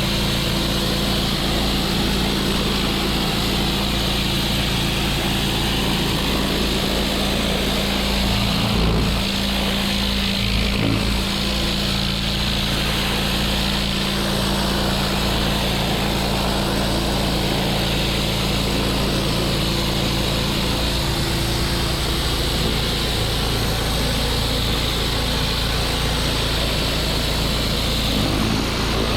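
Pressure washer's small engine running steadily at constant speed, with a steady hiss of water spray over it; the engine sound wavers briefly twice, about a third of the way in.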